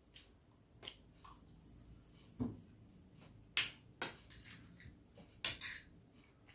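Sporadic eating sounds of a rice meal eaten by hand: about five short, wet smacks and clicks spread over a few seconds, with faint clinks from the plates.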